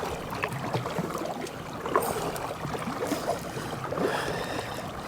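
Canoe being paddled: paddle water splashing and trickling, with a few small knocks.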